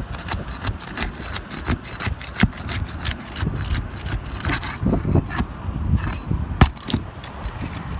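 Pry bar scraping and prying under asphalt shingles: a run of clicks and scrapes, with one sharp crack about six and a half seconds in. Wind rumbles on the microphone.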